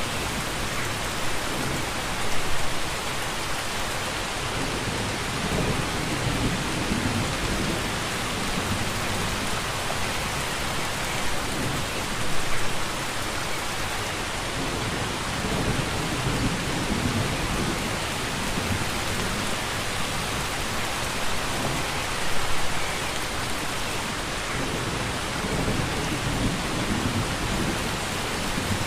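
Steady heavy rainfall with a constant hiss, under low rumbles of distant thunder that swell and fade every several seconds. Brief louder splashes come about every ten seconds.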